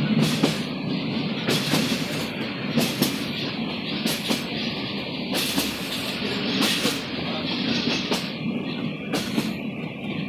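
Rangpur Express passenger train running along the track: a steady rumble from the wheels on the rails, with sharp clacks at uneven intervals as the wheels pass over rail joints.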